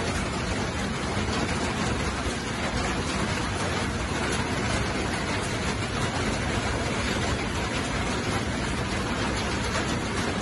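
Scrambled eggs and sliced smoked sausage sizzling in a frying pan as they are stirred; a steady hiss.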